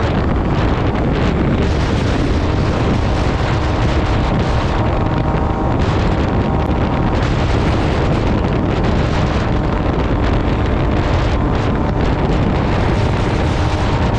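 Wind rushing over the microphone while riding an MV Agusta Brutale 800 RR, its three-cylinder engine and SC-Project exhaust running steadily underneath.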